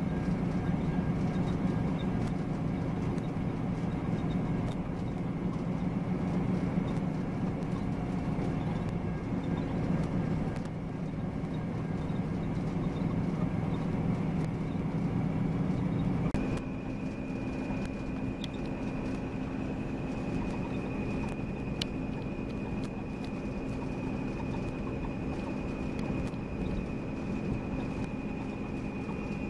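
A Volvo B9R coach's engine and drivetrain running steadily under way, with a thin high whine over the low drone. About 16 seconds in, the pitch shifts and the sound drops a little, as with a gear change.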